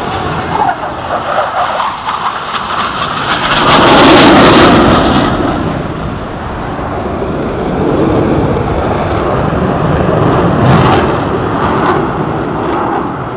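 Blue Angels F/A-18 Hornet jets passing overhead: a loud jet noise that swells to a peak about four seconds in, eases off, then builds again later.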